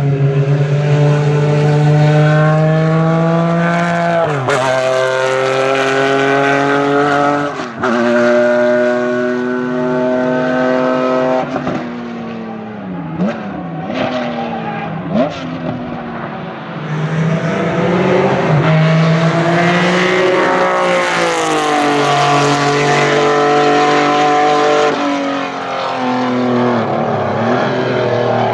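Racing car engine accelerating hard, its pitch climbing and dropping sharply at two quick upshifts. Then it slows with downshifts and short throttle blips under braking, before accelerating again.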